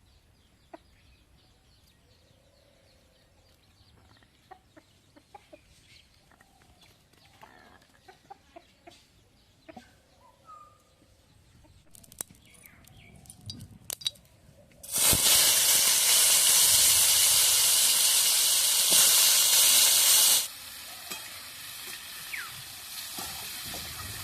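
Chickens clucking faintly at first, then a sudden loud sizzle of food going into hot oil in a cooking pan about two-thirds of the way in. The sizzle stays loud for about five seconds, then drops abruptly to a steady quieter frying hiss.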